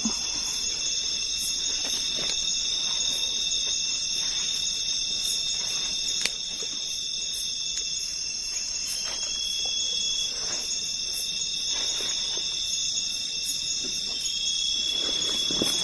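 Chorus of night insects, crickets among them, keeping up steady high-pitched trills at several pitches. Some faint rustling and handling noise near the end.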